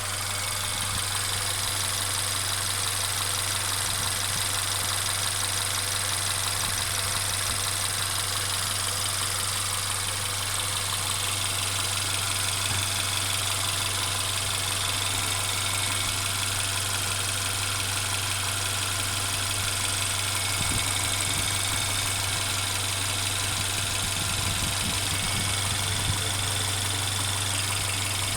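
Mercedes CLA 250's turbocharged four-cylinder petrol engine running steadily, with a continuous rattling noise that the owner reports as present the whole time.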